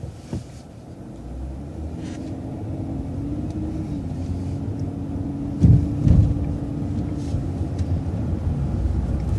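Transit bus engine running and getting steadily louder as the bus pulls ahead, with a steady drone that sets in about two seconds in. Two heavy thumps come around six seconds in.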